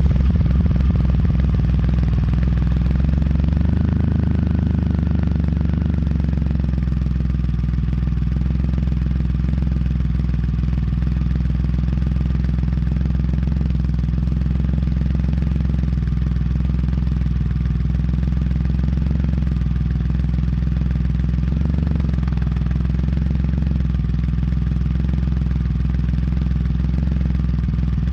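Triumph Rocket III's 2.3-litre three-cylinder engine idling steadily, just after starting, through a new hand-made stainless steel slip-on exhaust. The revs lift briefly about four seconds in.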